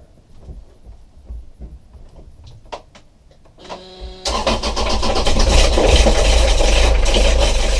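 Kubota marine diesel engine cranked by its starter for about half a second, then catching about four seconds in and running loudly with a dense metallic rattling, knocking clatter. The clatter is the sign of something broken off and bouncing around inside, which the crew suspect is in the timing system. Before the start there are only a few faint clicks.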